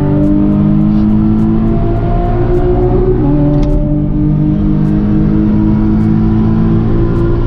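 Car engine pulling hard under acceleration. The pitch climbs, drops about three seconds in as the gear changes, then climbs again.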